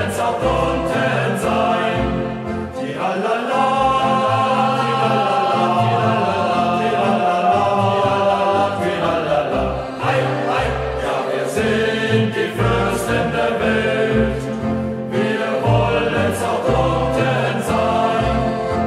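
Youth choir singing a German marching-style hiking song in unison, over instrumental accompaniment with a regular low beat.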